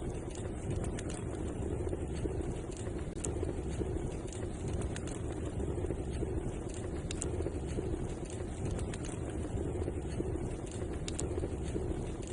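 Wood fire crackling in a fireplace: scattered, irregular sharp pops over a steady low rumble of the flames.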